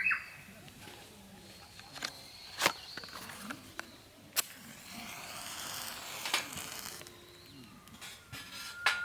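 A few scattered sharp clicks and knocks over quiet outdoor background, with a soft hiss for a couple of seconds past the middle.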